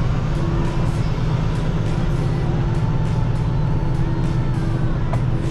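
Semi truck's diesel engine running steadily, heard from inside the cab, with music playing faintly alongside.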